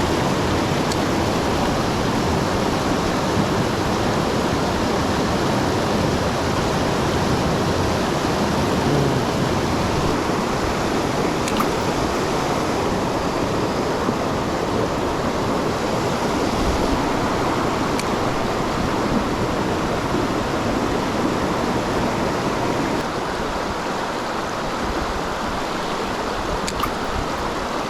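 Mountain stream water rushing steadily, a loud even wash, with a few faint ticks.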